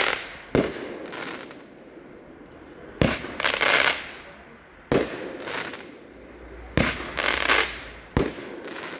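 The 'Blue Sugar Skull' 8-shot consumer firework cake is firing. There are five shots at uneven intervals, and each sharp launch thump is followed about half a second later by a crackling aerial burst.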